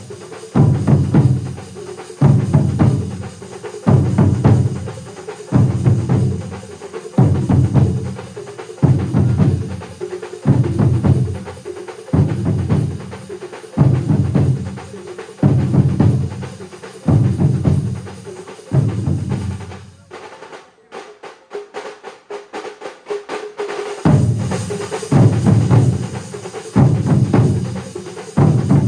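Large percussion ensemble of drums playing together, with a heavy low beat about every second and a half to two seconds and dense playing between. About twenty seconds in, the heavy beats stop for some four seconds, leaving a fast run of light clicking strokes. Then the full beat comes back.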